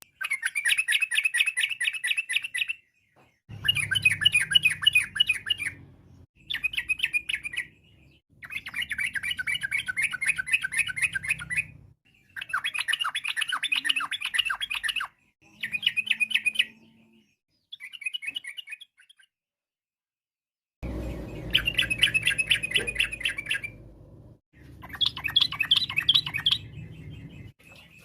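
Yellow-vented bulbul (trucukan) singing: about nine bursts of rapid, chattering notes, each lasting one to three seconds, with short breaks between them.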